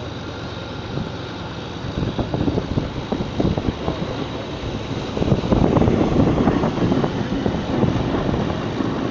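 A pulling truck's engine running hard at full throttle with a rough, crackling exhaust. It grows louder about two seconds in and is loudest from about five seconds in, with wind on the microphone.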